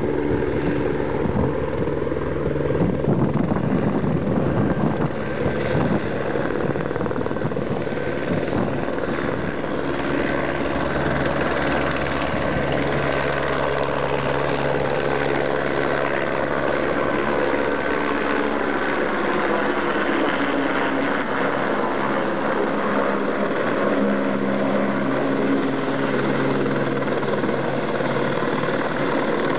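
Aérospatiale AS355F2 Twin Squirrel helicopter, its twin turbine engines and rotor running steadily as it comes in to land. The turbine whine slowly shifts in pitch near the middle, and the deep rotor throb fades in the second half.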